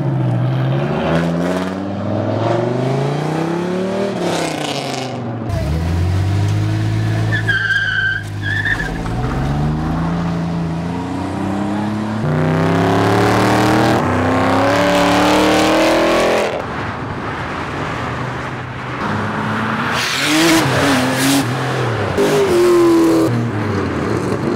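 Car engines revving hard and rising in pitch, dropping back and climbing again through gear changes as cars accelerate away, with bursts of tyre squeal as the tyres break traction.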